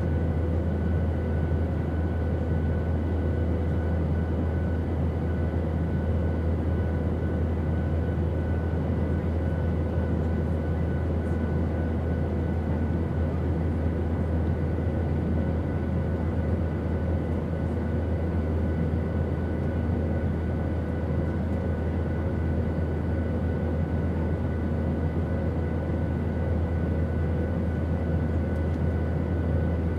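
Steady airplane drone: a deep, unchanging rumble of engine and airflow noise, with a faint steady whine above it.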